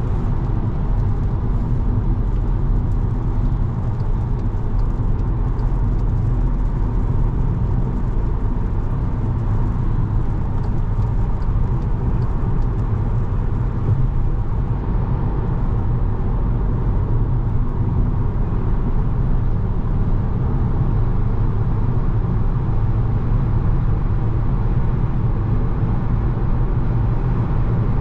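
Steady engine drone and road noise inside the cabin of a 2017 Volkswagen Jetta SE, its 1.4-litre turbo four held at a constant pitch while cruising.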